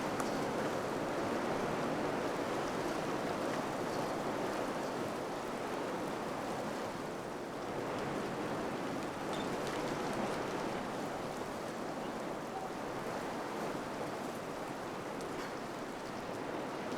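Wind blowing steadily, a continuous noise that swells and eases slightly.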